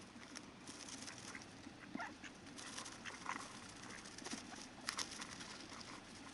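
Ducks on a river: a couple of short, soft calls and much small pattering and splashing in the water, over a steady low rush of flowing water.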